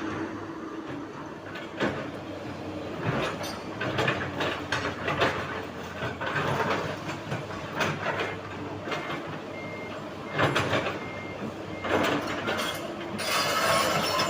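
Heavy machinery working, with repeated rough, scraping bursts. From about nine seconds in, a reversing alarm beeps about twice a second.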